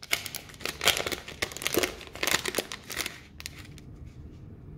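Packaging crinkling as it is handled and unwrapped: a dense run of crackly rustling for about three seconds, then a few lighter ticks before it settles.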